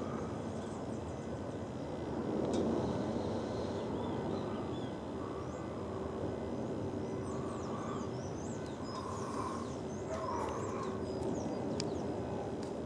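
Small birds chirping in quick short calls over a steady low rumble, which swells slightly a couple of seconds in.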